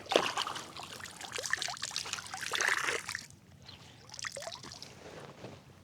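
Water splashing and trickling in the shallows of a lake, busy for about three seconds, then dropping to a few lighter splashes and drips.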